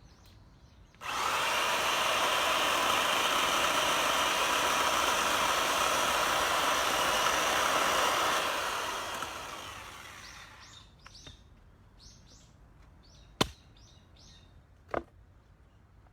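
Power saw for cutting firewood, starting abruptly about a second in, running steadily for about seven seconds, then winding down. After it, a few birds chirp and there are two sharp knocks near the end.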